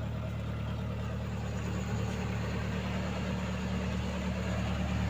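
A vehicle engine idling steadily, an even low hum.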